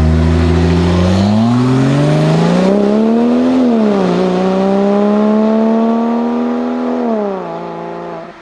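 Porsche 997 Turbo's twin-turbo flat-six through a Soul competition exhaust, pulling hard with a rising note. The pitch drops sharply on an upshift about four seconds in, and the engine pulls again before the driver lifts off near the end and the sound falls away.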